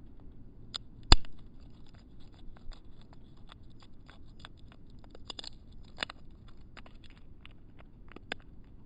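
Small birds pecking and scratching at a seed feeder: irregular sharp clicks and taps, with one louder knock about a second in.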